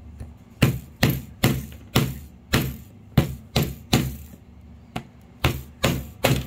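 Hammer repeatedly striking nails into a wooden kit piece, about two blows a second with a brief pause near the end, loud and sharp.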